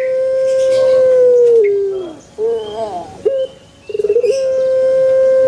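Puter pelung dove cooing: a long, loud held coo that drops in pitch at its end, a couple of short curved notes, then a quick fluttering trill that runs straight into a second long held coo near the end.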